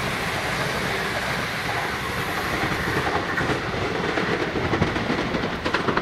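A passenger train running through at speed: a steady rush of wheel and rail noise. In the second half the wheels clatter sharply over the track.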